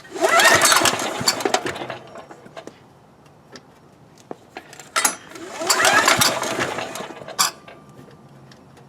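Two hand pulls of the recoil starter on an ETQ DG7250LE diesel generator's single-cylinder engine, each cranking it over for about two seconds with a rising whir before it coasts down, and a sharp click after the second. The engine does not fire because its fuel valve is shut off.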